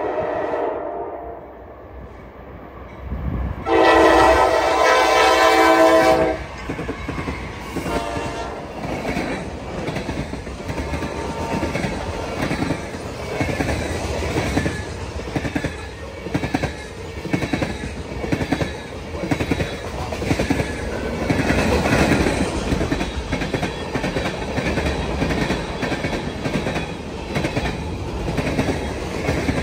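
Diesel locomotive air horn trailing off, then one loud horn blast about four seconds in, followed by a train rolling past with its wheels clicking in a steady rhythm over the rail joints.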